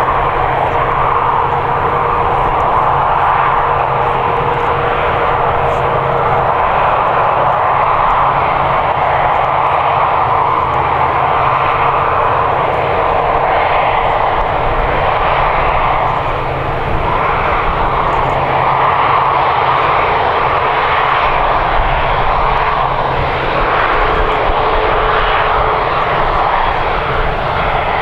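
Airliner's engines running loud and steady at close range, a dense noise with a faint steady whine over it.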